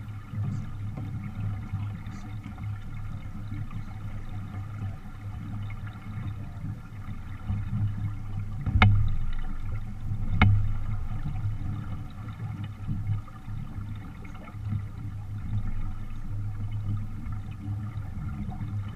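Wind rumbling on the microphone and water rushing along the hull of a small sailboat running under sail in a strong breeze. About halfway through come two sharp knocks, a little under two seconds apart.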